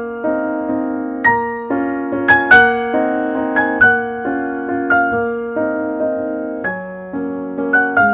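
Background piano music: a slow, gentle piece of single notes and chords, each struck and left to fade.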